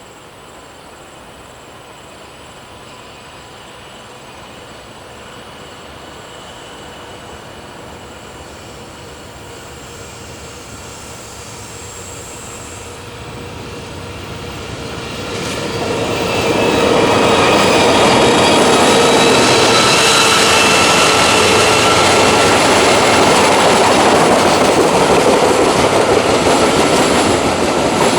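Train approaching and growing gradually louder, then passing close and loud from about 16 seconds in, with steady high squealing tones from its wheels on the curve.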